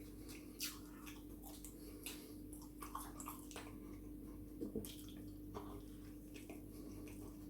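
Close-miked chewing of a chicken burger: faint wet mouth clicks and small crackles at irregular intervals, over a faint steady hum.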